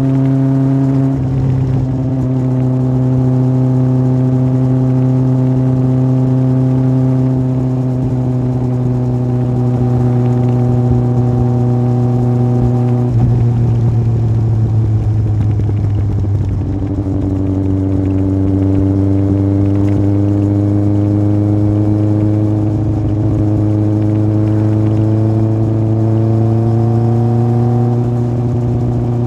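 Yamaha Fazer 1000's inline-four engine through an aftermarket MIVV exhaust, running under way at steady revs. Its note shifts about a second in and twice more around the middle, then rises slowly as the bike accelerates near the end.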